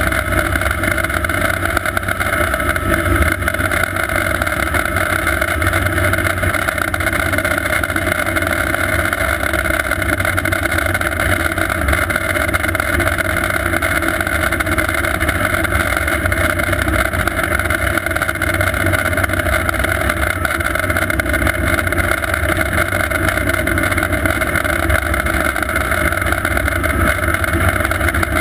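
Sikorsky S-58T twin-turbine helicopter running steadily: a constant turbine whine over the low, rapid beat of the main rotor.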